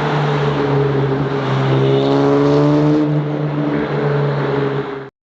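A car engine running steadily as traffic moves, with a second engine's pitch gliding in the middle; the sound cuts off abruptly near the end.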